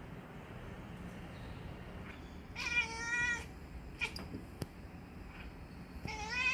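Two drawn-out, wavering meow calls, one about two and a half seconds in and another near the end, with a few short clicks between them.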